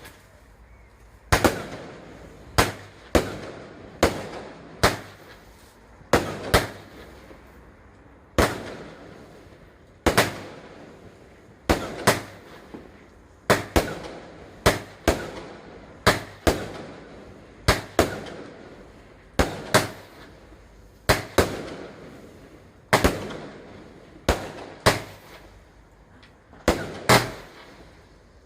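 Fireworks exploding in a long, steady series of sharp bangs, roughly one a second and often in quick pairs. Each bang is followed by a trailing echo.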